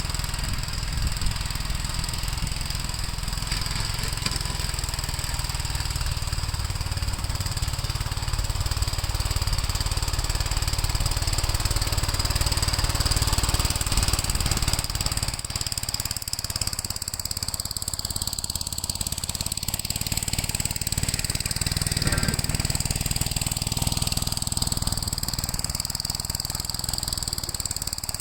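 Gravely L8 walk-behind tractor's single-cylinder engine running steadily while clearing snow, its tone sweeping down and back up over the second half.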